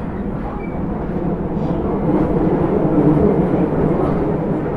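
Osaka Metro 30000 series train running, heard from inside the car: a steady rumble of wheels and running gear on the rails, swelling slightly about halfway through.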